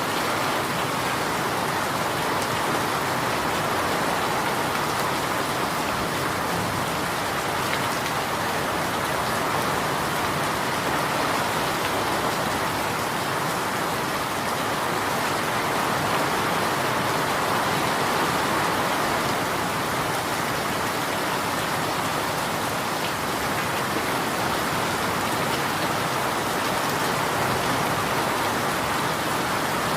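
Steady rain falling, an even hiss of many drops with fine patter.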